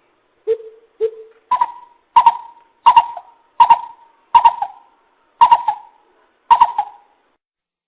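Coucal calling: a series of about nine deep, hollow hoots. The first couple are lower and the rest step up in pitch, with the gaps widening slightly near the end.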